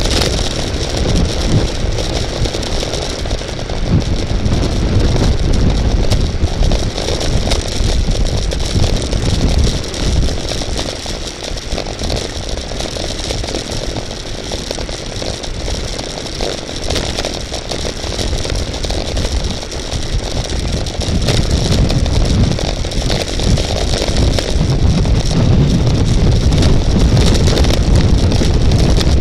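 Wind buffeting the microphone of a camera riding along in a bicycle race, mixed with tyre and road noise. It is a loud, steady rush that eases a little in the middle and swells again near the end.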